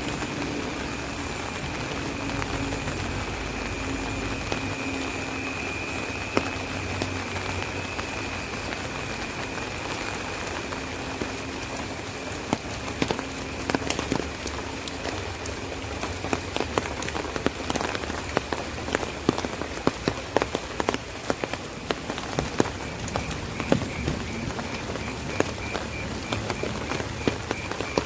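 Rain falling on an umbrella held overhead: a steady hiss of rainfall with sharp taps of single drops on the canopy, which come thicker and louder from about halfway through.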